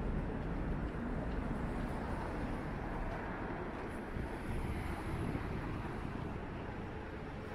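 Low rumble of a train on an elevated railway bridge dying away, leaving a steady low rumble of street traffic.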